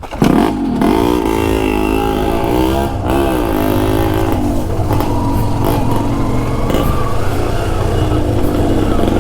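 Yamaha RX two-stroke single-cylinder motorcycle engine revving as the bike pulls away, its pitch rising and falling again and again with the throttle.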